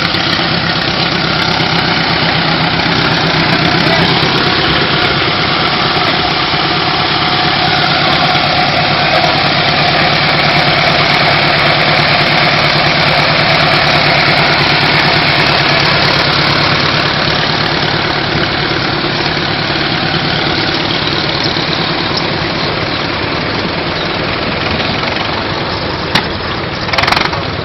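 An engine running steadily at idle, with a couple of sharp knocks near the end.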